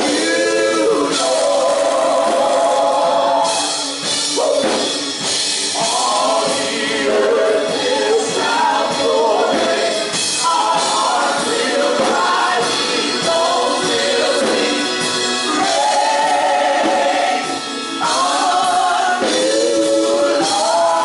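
Gospel music: a choir singing held, wavering notes over instrumental backing.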